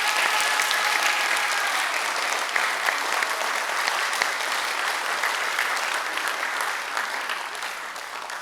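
Audience applauding: dense clapping that slowly dies down toward the end. A faint held note fades out within the first couple of seconds.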